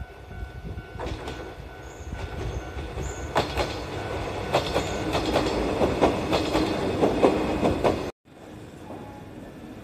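Mizuma Railway 1000 series electric multiple unit (ex-Tōkyū 7000 series) passing, its wheels clacking over rail joints in quick repeated strikes that grow louder as it comes by. The sound cuts off suddenly about eight seconds in.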